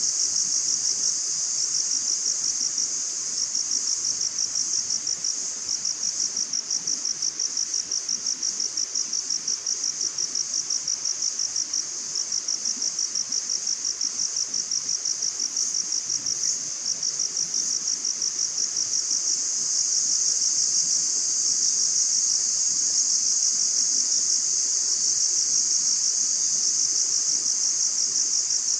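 Crickets trilling in a continuous chorus, a high, rapid pulsed chirping that goes on without a break and grows a little louder about two-thirds of the way through.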